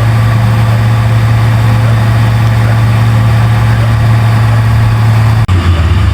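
Large bulldozer's diesel engine running with a steady, heavy low drone. It breaks off sharply about five and a half seconds in, and after that the drone wavers unevenly.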